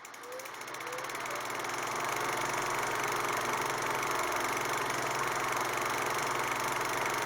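Ultrasonic aroma-diffuser humidifier running: a steady hum and whir with a fast, even flutter, growing louder over about the first two seconds and then holding steady.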